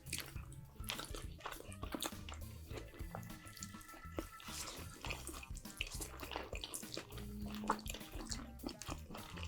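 Close, wet mouth sounds of eating: irregular smacks, clicks and slurps of chewing food, with soft background music underneath.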